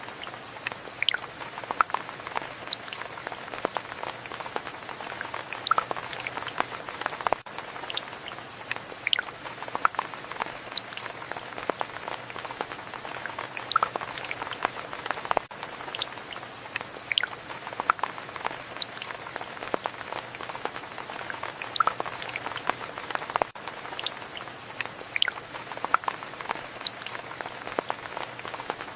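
Steady rain with many individual drops dripping irregularly, close and crisp, over a soft hiss. A faint high tone that falls slightly comes back about every eight seconds.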